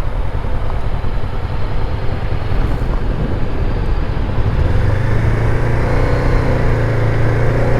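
Honda NX500 parallel-twin engine running over a rushing noise, with a steady engine note that comes up louder about five seconds in.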